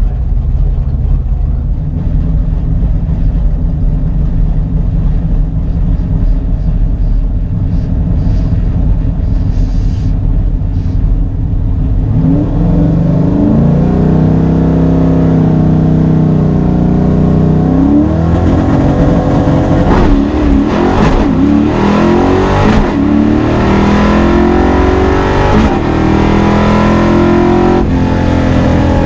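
Fox body Mustang's 5.0 V8 running with a steady low rumble, then accelerating hard from about twelve seconds in. The pitch climbs, drops back about six seconds later, and climbs again, as if shifting up through the gears.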